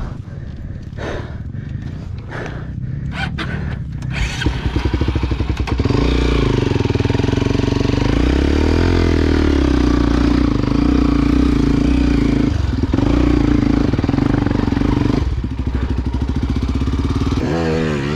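Single-cylinder motorcycle engine of an enduro bike, running low with a few clicks at first, then revving up about four seconds in and pulling at fairly steady revs, with brief dips in throttle near the end.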